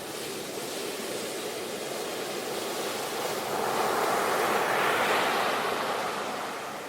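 Sea waves washing onto a shore: a steady rush of surf that swells to a peak about four to five seconds in, then draws back and fades.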